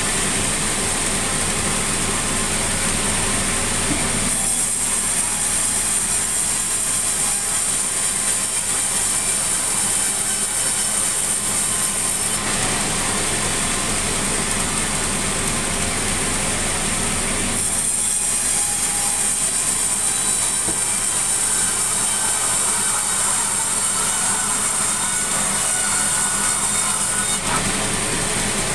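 Sawmill saw running and cutting sengon (albizia) logs into lumber. The high-pitched part of the sound changes several times, about every five to ten seconds, as cuts begin and end.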